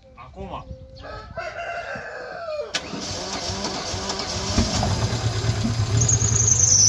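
A rooster crows, then about three seconds in the starter of a Daewoo Espero 1.5 16v cranks its four-cylinder engine, which catches and runs, growing louder: the first start after three years standing.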